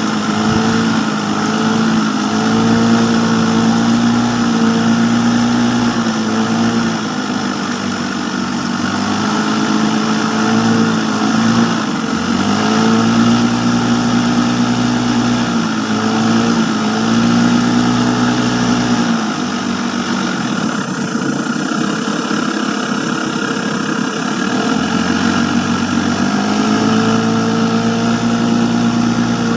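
Small engine running throughout, its revs rising and falling every few seconds as the throttle is opened and eased off.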